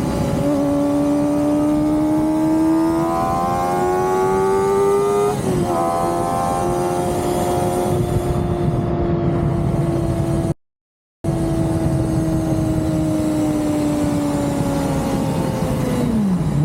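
Kawasaki ZX-4RR's inline-four engine revving high. The pitch climbs for about five seconds, drops sharply at a gear change, then holds a high, steady note that sags slowly, falling off near the end as the throttle eases. A brief total dropout of sound falls a little past the middle.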